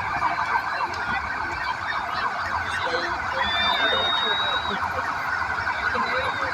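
Several police sirens wailing at once, overlapping into a continuous din.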